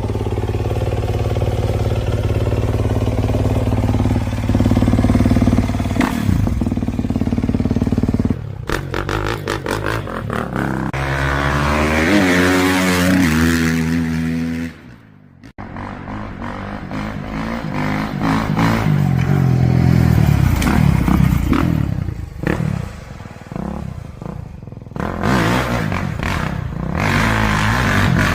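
Kawasaki KX450 four-stroke single-cylinder motocross engine running loud and revving up and down repeatedly, its pitch climbing and dropping several times. It cuts out almost to silence for a moment about fifteen seconds in before picking up again.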